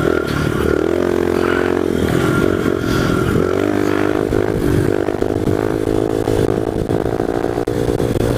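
1998 Honda XR100 pit bike's single-cylinder four-stroke engine revving hard under full throttle for a fifth-gear wheelie. Its pitch climbs, drops at a gear change about three seconds in, then climbs again and holds high.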